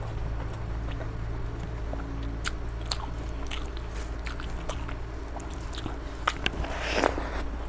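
Close-miked chewing of a mouthful of rice and chicken: scattered wet mouth clicks and smacks over a steady low hum, with a louder smack about seven seconds in.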